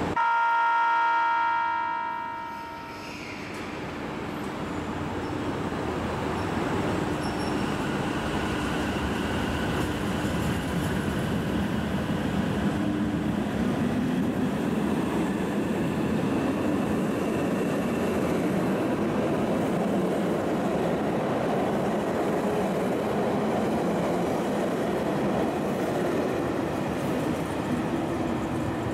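JR Hokkaido 789-series limited-express electric train sounds its horn, one held note of about two and a half seconds, and then pulls out. Its motors and wheels run steadily as the carriages pass.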